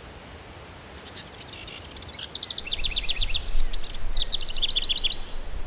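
A small bird singing two quick trilled phrases of rapid high notes, each stepping down in pitch, over wind buffeting the microphone that grows stronger about two seconds in.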